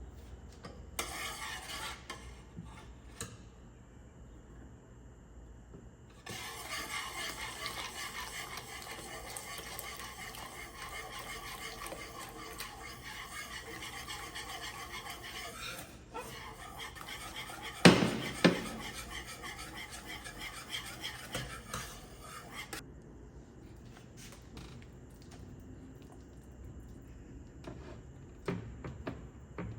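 Kitchen work sounds: a steady scraping hiss that runs for about sixteen seconds, with a sharp, loud clack of kitchenware partway through, followed by a few lighter knocks.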